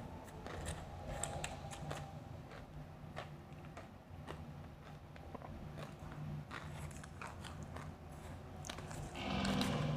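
Close-miked biting and chewing of blended ice made from grape soda: many soft, scattered crunches, louder near the end.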